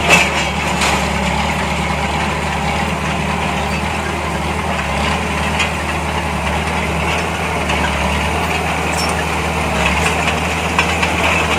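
Heavy construction machine's diesel engine running steadily at low revs, an even low drone, with a brief knock right at the start and a few light clicks.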